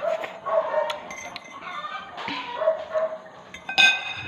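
A dog whimpering and yipping in a series of short, high whines.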